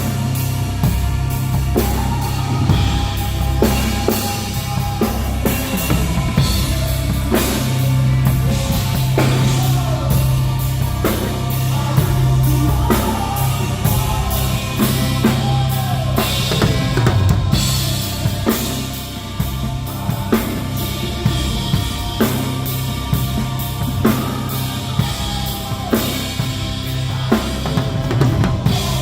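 Live rock band playing instrumental music: a drum kit driving a steady beat of bass drum and snare over a held bass line, with pitched melodic lines above.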